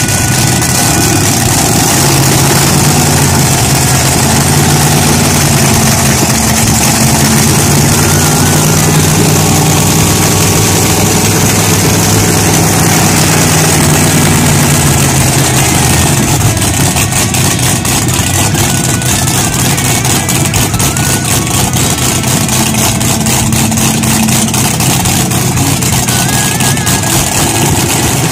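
Methanol-injected 502 cubic-inch (8.2 L) big-block Chevrolet V8 with Crower stack injection, idling loudly and steadily. About halfway through the sound becomes choppier.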